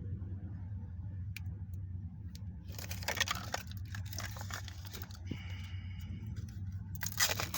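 Plastic toy parts and packaging being handled: rustling with small clicks about three seconds in and again near the end, over a steady low hum. A brief high tone sounds about five seconds in.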